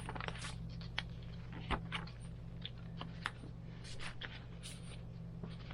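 Pages of a thick handmade paper journal being handled and turned: scattered light paper rustles, soft taps and clicks, over a steady low hum.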